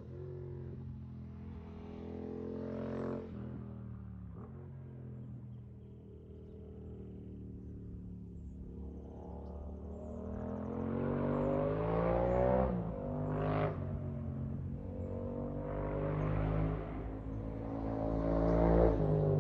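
Yamaha FZ-07 parallel-twin engine through a full Yoshimura R77 exhaust, pulling hard on a mountain road. It runs quieter and steadier at first, then the pitch climbs and drops several times as it revs up, with a sharp peak about two-thirds of the way through, growing louder toward the end.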